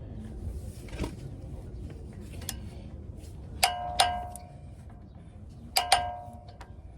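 Metal hand tools clinking against each other and against the brake parts during bolt tightening. Two louder ringing clanks come just before the middle and again about six seconds in, between lighter clicks.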